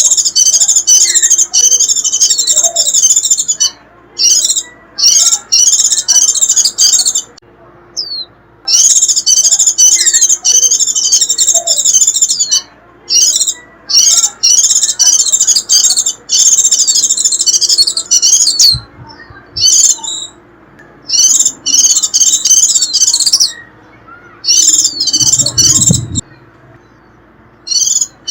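A white-eye (vành khuyên) singing its high, rapid twittering 'rít' song, in dense phrases of one to several seconds broken by short pauses.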